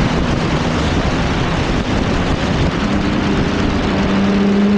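Sport motorcycle riding, with a heavy rush of wind noise over the rider's microphone. The engine note comes through clearly in the second half, rising slightly in pitch.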